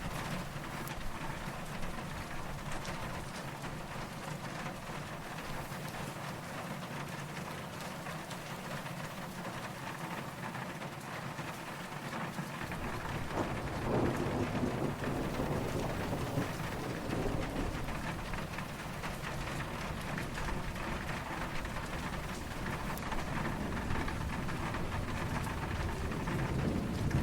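Steady rain falling, with soft distant thunder. About halfway through, a low rumble of thunder comes in beneath the rain, swells, and keeps rolling to the end.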